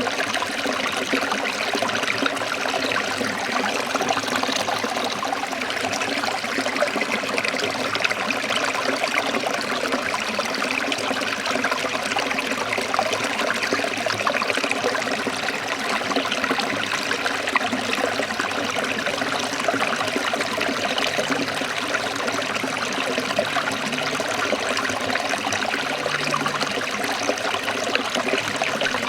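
Shallow forest stream trickling and splashing over rocks: a steady, even rush of running water.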